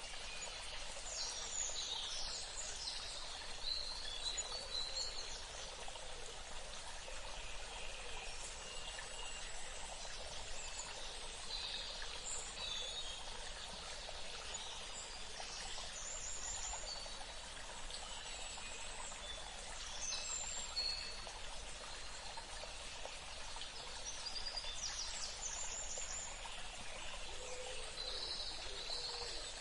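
Forest ambience: a steady rush of running water, with birds chirping on and off over it, most clearly about a second in, near the middle and near the end.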